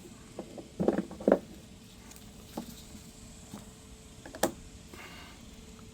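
Battery charger cable clamps being handled and clipped onto battery terminals: a few short knocks about a second in and a sharp click about four and a half seconds in, over a faint steady hum.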